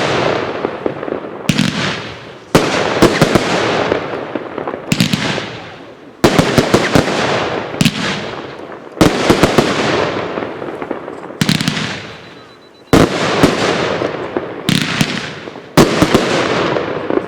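Consumer fireworks cake 'Exploding Box', a W-shaped fan cake, firing its shots: about ten sharp, loud bangs spaced one to three seconds apart, each followed by a fading rush of noise from the bursting effects.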